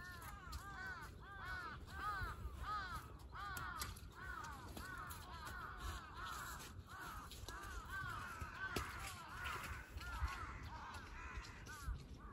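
A bird calling over and over in quick short arched notes, about three a second, with a low steady rumble underneath.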